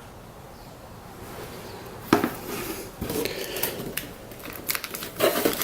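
Handling noise from a model kit's white metal parts: a few sharp clicks and knocks about two and three seconds in and again near the end, with light rustling of the packaging in between.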